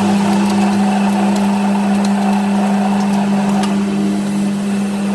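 A machine motor running steadily with a strong, even hum, and a few light ticks over it.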